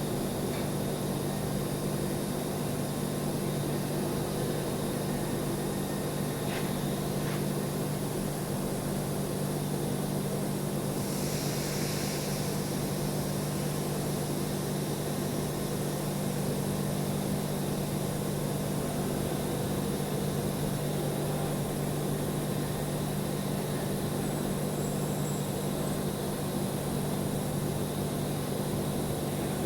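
Steady electric hum over an even hiss, without the popping crackle of stick welding. A short hissing swell comes about eleven seconds in.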